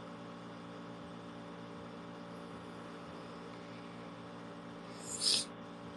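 Air conditioner running close to a sensitive microphone: a steady hum with several fixed tones over a hiss. A brief high hiss comes about five seconds in.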